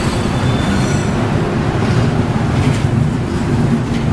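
Passenger train coaches rolling slowly past, a steady rumble of steel wheels on the rails, with a thin wheel squeal dying away in the first second.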